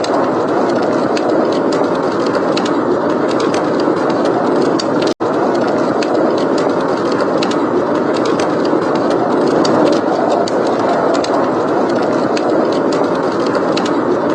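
Steady blizzard wind blowing, mixed with fireplace crackle: small, irregular pops throughout. The sound drops out completely for a split second about five seconds in.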